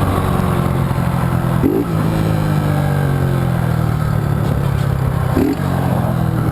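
Honda Hornet motorcycle's inline-four engine on the overrun, its note slowly falling, with brief revs about two seconds in and again near the end, and popping from the exhaust.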